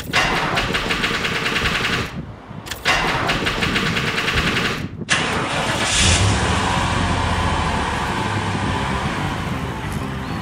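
Small petrol hatchback, a Nissan Micra, being cranked on its starter in two bursts of about two seconds each that do not catch. On a third try at about five seconds the engine starts and keeps running.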